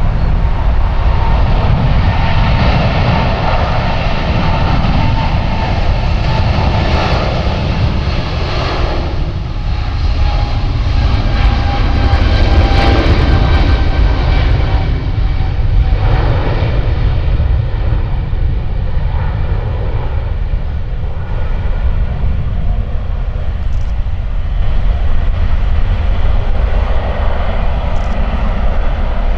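Jet airliner engines running, a steady loud rumble with a faint whine that sinks slightly in pitch in the first half.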